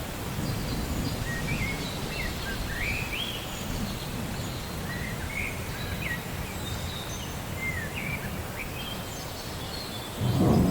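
Steady rain with many short bird chirps over it, and a low rumble of thunder swelling near the end.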